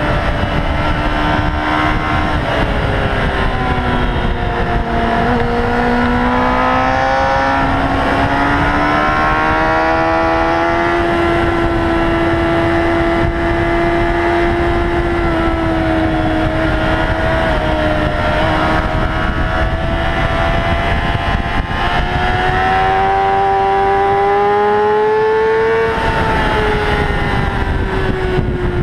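Honda CBR600RR's inline-four with a Leo Vince carbon exhaust running at high revs on the move, over wind rush. The engine note drops a few seconds in, climbs slowly, rises again later and falls away near the end.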